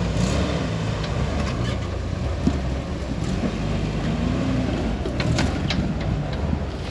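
An off-road rock crawler's engine running at low revs as the rig crawls over rocks, with scattered sharp clicks and knocks from the tires and chassis on rock.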